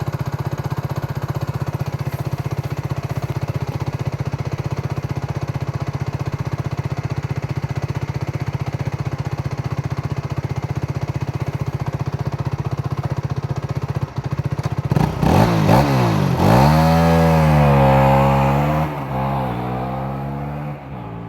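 Aprilia RS4 125's single-cylinder four-stroke engine through its stock muffler, idling steadily, then revved: a few quick blips about 15 seconds in, then held at higher revs for a couple of seconds before dropping back toward idle near the end.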